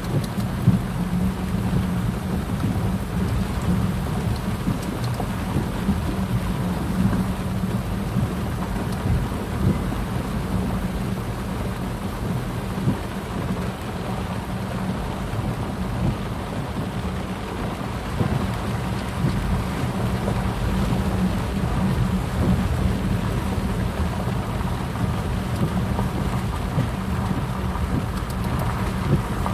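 Steady rush of heavy rain and flowing water, with a deep low rumble throughout.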